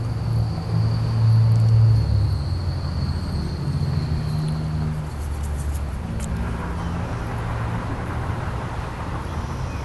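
Low rumble of a motor vehicle's engine running, its pitch shifting slightly, with a faint steady high tone for about the first five seconds and a wash of noise building after about six seconds.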